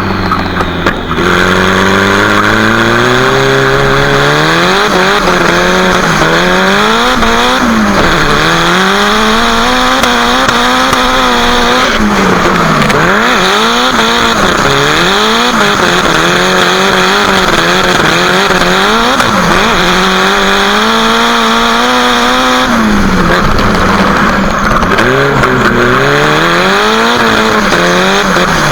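Nissan Silvia drift car's exhaust heard right at its bonnet-exit muffler, the engine revving hard: a long climb in pitch over the first few seconds, then repeated rises and sharp drops as the throttle is worked through the drift.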